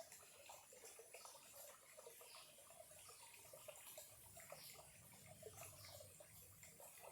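Small clear stream trickling and bubbling faintly, a steady scatter of little plinks and gurgles. A faint low rumble joins from about halfway through.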